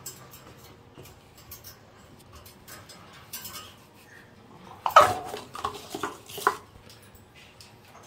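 A bird gives several short, pitched calls, loudest about five seconds in, among light clicks and clatter.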